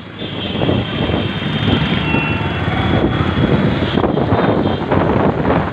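Motorcycle running along the road with wind buffeting the microphone, a steady loud drone.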